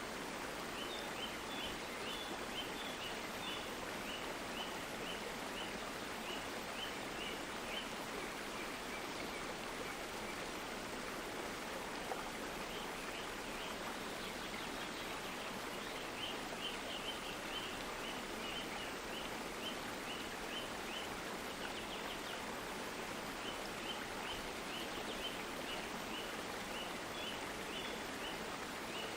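Stream water flowing steadily, with runs of short high chirps repeated a few times a second, starting and stopping in several bouts, from a small bird.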